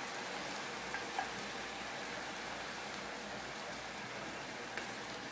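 Chicken pieces and sliced onion sizzling steadily in a frying pan with teriyaki sauce, a soft even crackle; a couple of faint clicks about a second in.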